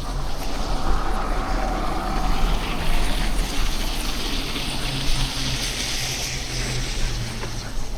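Snowy city street traffic: a motor vehicle's engine hums steadily close by, with tyre hiss on the snow-covered road that swells in the middle, over a low rumble.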